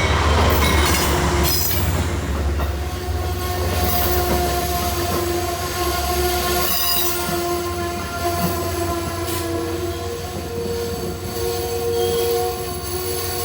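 Amtrak train at a platform, with a steady low rumble under high squealing tones from the wheels and brakes that come and go.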